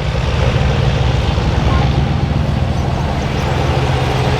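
Diesel pickup truck engine running loud and steady with a constant low drone.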